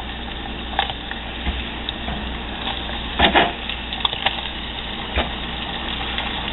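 Hot oil sizzling steadily in a steel pot as floured morel mushroom pieces deep-fry, with more floured pieces dropped in by hand. A few short knocks stand out, the loudest about three seconds in.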